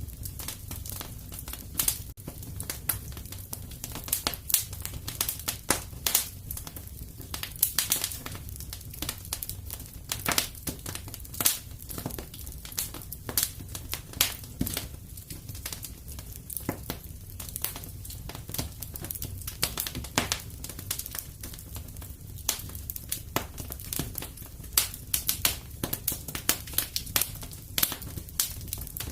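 Fireplace fire crackling, with frequent irregular pops and snaps over a steady low rumble.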